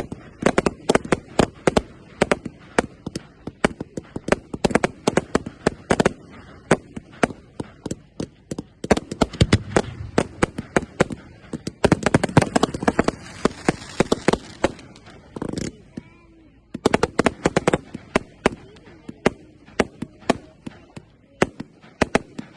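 Fireworks going off in a rapid barrage of sharp bangs, several a second, with a stretch of crackling near the middle and a brief lull about two-thirds of the way through.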